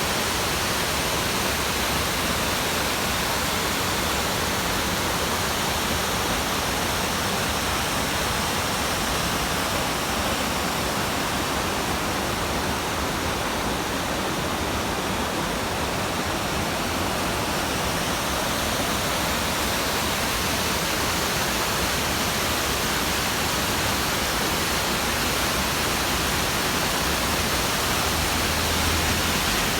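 Waterfall on a mountain stream, water pouring with a steady, even rushing noise.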